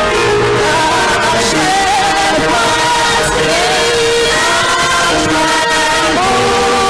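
Gospel choir singing a song with band accompaniment: voices over sustained keyboard-like chords and a steady beat.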